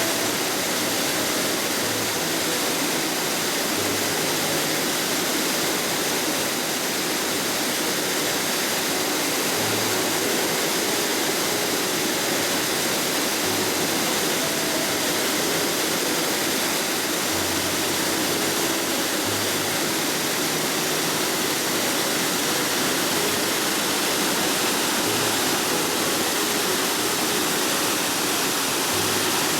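Karasawa Falls: a waterfall's steady, loud rushing of falling water.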